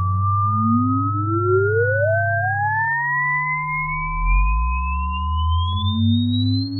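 Electronic sine-wave test tones for checking a sound system: one pure tone glides steadily upward in pitch throughout, while a second tone climbs from low, holds steady for about three seconds, then gives way to another that starts low and rises near the end. Loud, low bass tones underneath change in steps.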